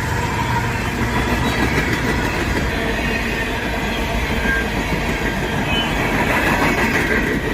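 Empty coal hopper cars of a freight train rolling past, the wheels clattering steadily over the rail joints, with a faint high squeal from the wheels now and then.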